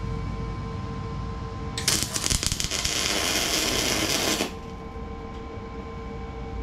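MIG welder laying a tack weld: about two seconds in, the arc strikes and crackles and buzzes steadily for about two and a half seconds, then cuts off sharply. The welder suspects the wind is spoiling the shielding gas. A steady low hum runs underneath.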